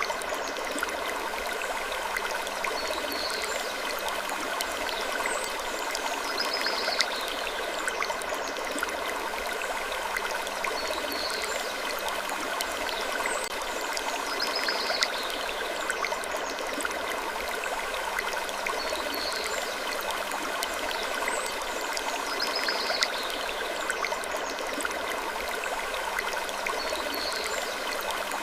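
Steady rushing, water-like noise, like a flowing stream, with short faint high-pitched sounds recurring every couple of seconds.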